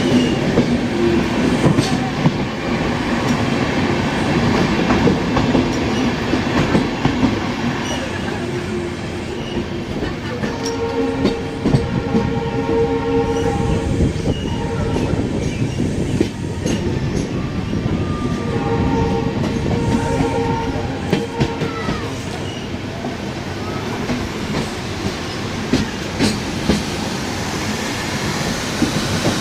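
Indian Railways passenger train running along the track, its wheels rumbling and clattering steadily on the rails. The train horn sounds twice, two long blasts of a few seconds each, about ten seconds in and again near twenty seconds.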